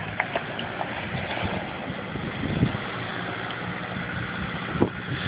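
A vehicle's engine running steadily as it fords a creek, over a steady rushing noise, with a few light knocks.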